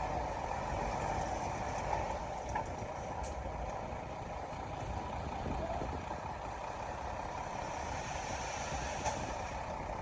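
Heavy diesel earthmoving machinery running steadily, a continuous engine rumble with a few faint clanks.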